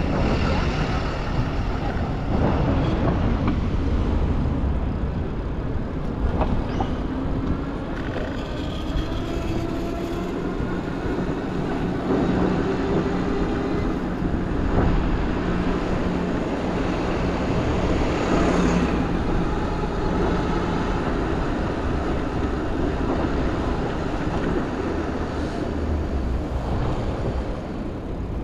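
Downtown street traffic heard from a moving bicycle, with wind rumbling on the microphone. Through the middle a vehicle's motor rises in a whine and then hums steadily.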